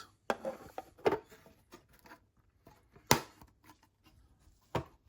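Small plastic scale-model tanks being handled: a few light clicks and knocks, the sharpest about three seconds in, with faint rustling between.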